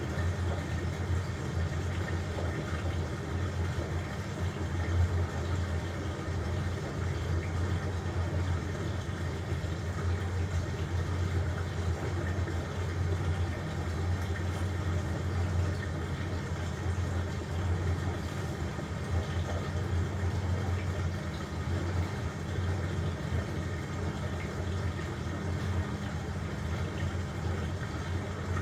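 LG washing machine running mid-cycle: a steady low hum with an even rush of noise over it.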